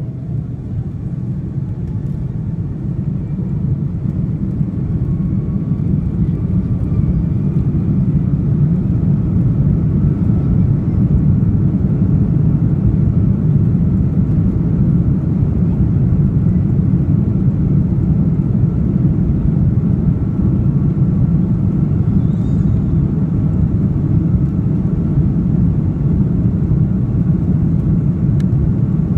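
Airbus A330-300 jet engines and runway rumble heard from inside the cabin during the takeoff roll. It is a loud, steady low rumble that grows louder over the first several seconds as thrust builds, then holds.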